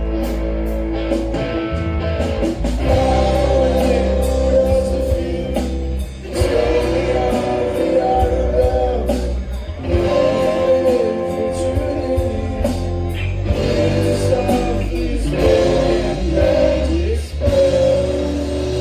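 Rock band playing with a singer: sustained vocals over instruments and a steady drum beat.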